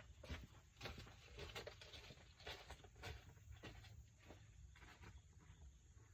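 Faint, irregular clicks and scrapes of hand tools and parts being handled, over a low steady hum.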